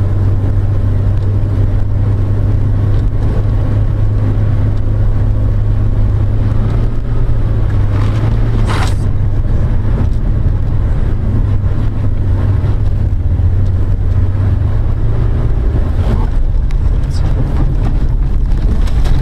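A vehicle on the move: steady, loud low rumble of road and engine noise, with one brief sharp noise about nine seconds in and a few fainter knocks later on.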